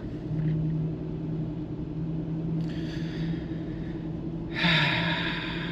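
Steady low drone of a truck engine and road noise heard from inside the cab at low speed on snowy roads, with two breathy exhales, a faint one about two and a half seconds in and a louder one near the end.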